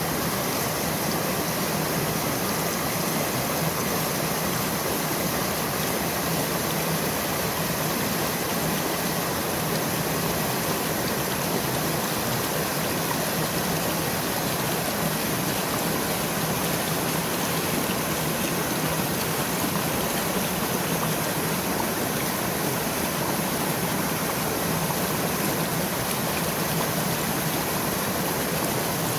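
Mountain stream flowing, a steady unbroken rush of water.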